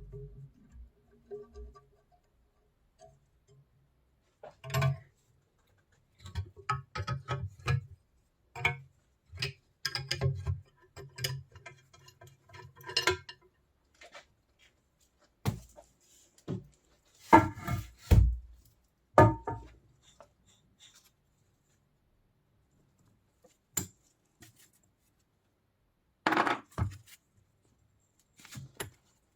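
Scattered metallic clinks, taps and knocks of metal parts being handled and set down, in irregular clusters with long silent gaps between them.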